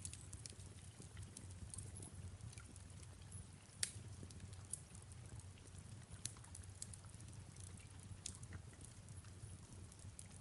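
Fireplace crackling faintly with scattered pops, one sharper pop about four seconds in, over a soft steady background of falling rain.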